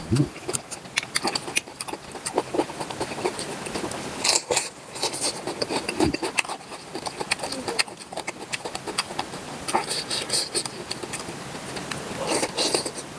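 A person eating close to the microphone: chewing and mouth smacking as irregular wet clicks, with a few brief louder noisy bursts.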